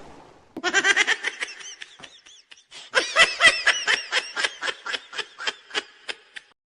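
High-pitched laughter: a run of quick 'ha' notes in two bouts, the second louder, then trailing off.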